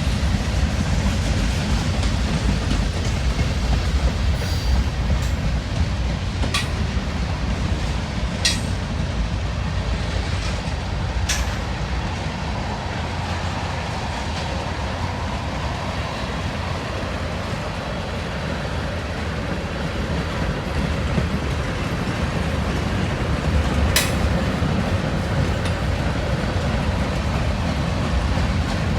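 Railroad cars rolling past with a steady rumble of wheels on rail. A few sharp metallic clanks ring out, four in all, spread through the passage.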